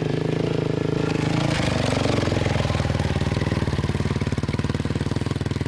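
Polaris 500 quad bike's engine running steadily, with a brief rise about one and a half seconds in before settling back to an even pulsing idle.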